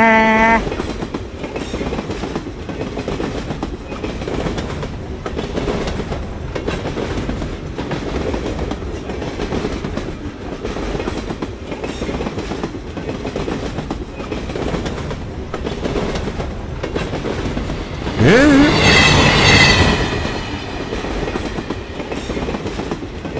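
Train sound effects: a steady rumble and clickety-clack of a train running. A horn ends about half a second in, and after about 18 seconds a loud pitched sound rising in pitch lasts about two seconds.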